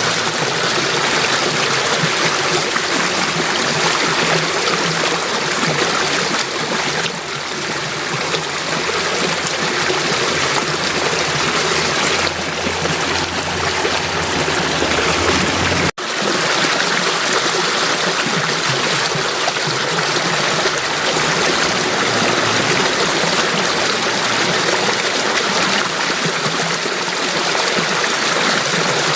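Water flowing in a stream, a steady rushing and trickling. About halfway through it cuts out for an instant and resumes, as at an edit.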